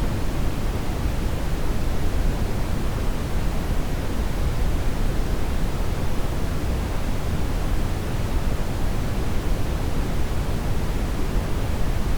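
Brown noise: a steady, deep rushing hiss, heaviest in the low end and thinning toward the treble, without change.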